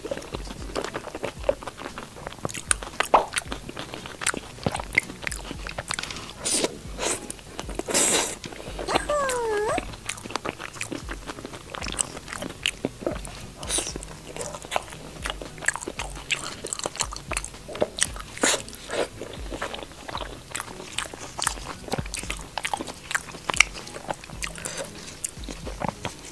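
Close-miked biting and chewing of fried skewered food, with many sharp crunches and wet mouth clicks throughout.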